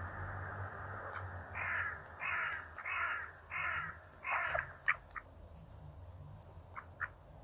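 A bird giving five loud, harsh calls in an even series, about one every 0.7 seconds, followed by a few short clicks.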